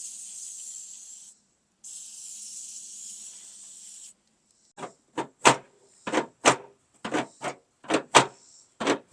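Aerosol lubricant sprayed onto a tailgate hinge in two hissing bursts, each one to two seconds long. Then a run of short sharp creaks or clacks, about two a second, as the hinge is worked back and forth.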